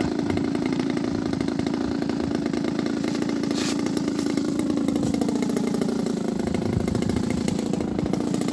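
Small gasoline engine of a model airplane running steadily at an even speed.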